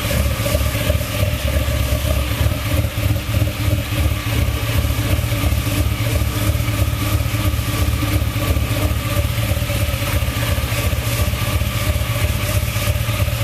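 Chevrolet Cavalier engine idling steadily with an even low pulse, settled into a good idle after a cold start and a few quick revs.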